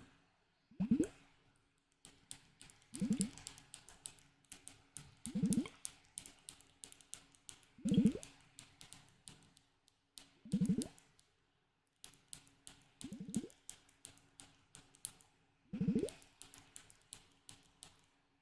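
Close-up ASMR handling of a soft object: a squish with a short pitch sweep about every two to three seconds, each wrapped in quick crackling clicks.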